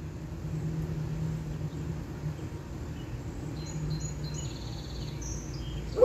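Small birds chirping, with short high notes and a quick trill in the middle, over a steady low hum.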